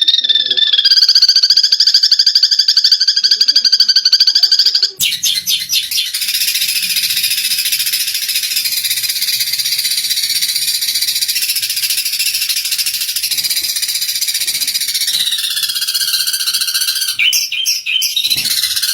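Recorded Eurasian tree sparrows (burung gereja) in a fast, buzzy fighting chatter. About five seconds in, the recording cuts abruptly to a denser, hissier high chatter of many calls. Near the end it breaks into separate calls, and the trill comes back.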